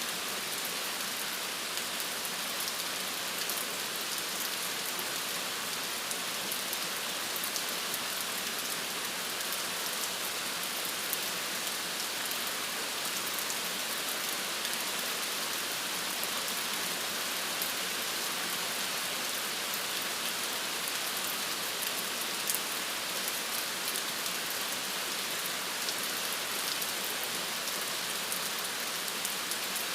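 Steady rain falling, a constant hiss with many fine drop ticks and no lulls.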